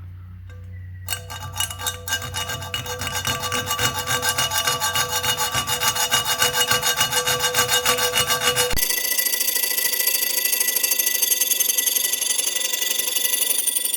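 Fine-toothed handsaw cutting through aluminum with quick, steady back-and-forth strokes, starting about a second in.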